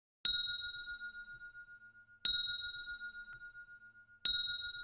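Timer alarm chime signalling the end of the countdown: a bell-like ding sounds three times, about two seconds apart, each ringing out and fading.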